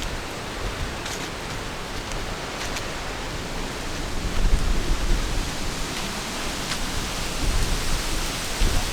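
Strong wind blowing across the microphone: a steady rush with low rumbling gusts buffeting it, growing stronger about halfway through and again near the end.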